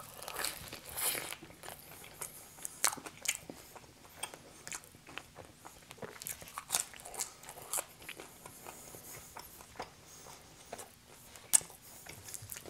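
Close-miked biting and chewing of pizza crust: crisp crunches and wet mouth clicks coming irregularly, heaviest in the first second or so, with one sharp click near the end.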